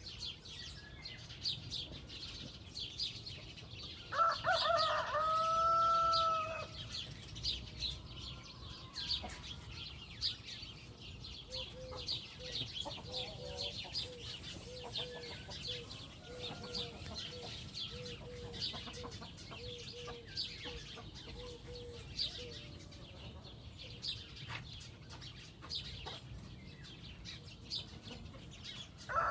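Chickens outdoors: a rooster crows once about four seconds in, and later a hen clucks in a steady run of repeated notes for about ten seconds. High, short chirps go on throughout.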